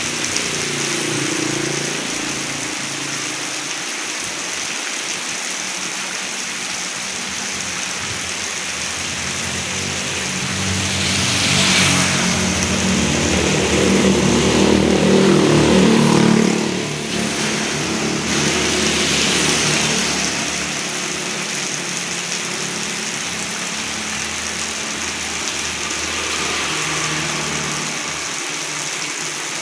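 Heavy rain falling steadily as a constant hiss, with water pouring from a roof gutter. Motor scooters and other traffic pass on the wet road, the loudest pass building to a peak about halfway through, with a few fainter ones around it.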